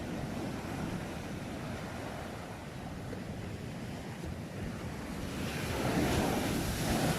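Sea waves washing onto the shore in a steady rush, with one wave breaking louder near the end.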